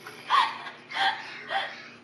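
Three short bursts of giggling, spaced about half a second apart.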